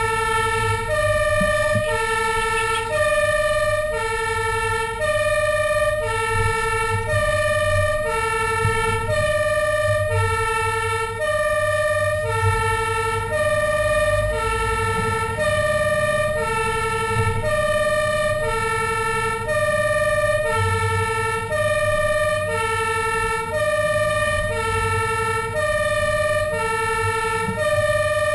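Fire engine's two-tone electronic siren sounding continuously on an emergency run, alternating steadily between a low and a high tone, each held about two-thirds of a second. The truck's engine rumbles low underneath.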